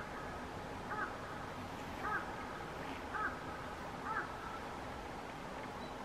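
A bird calling five times, about once a second, each call a short, clear note of two quick strokes.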